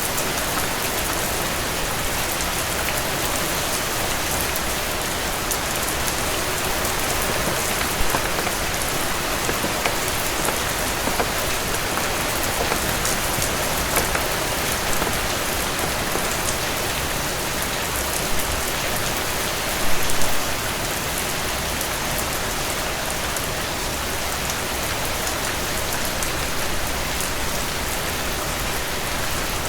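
Heavy rain falling on a surface: a steady, dense hiss, with occasional sharp clicks and a brief louder cluster of them about 20 seconds in.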